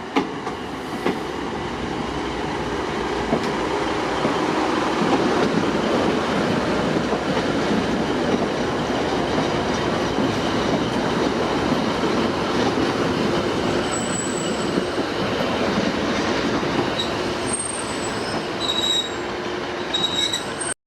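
Class 150 Sprinter diesel multiple unit pulling into the platform, its engine and wheels on the rails building up over the first few seconds and staying loud. Brief high squeals come from the wheels near the end as it slows.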